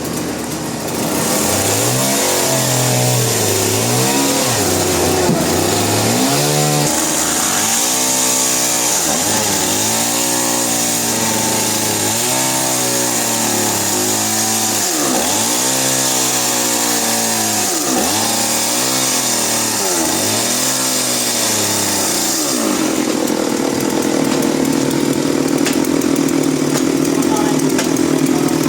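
A motor-driven saw running loudly, its pitch sagging and recovering over and over as if under load from cutting. About two-thirds of the way through it settles into a steadier drone.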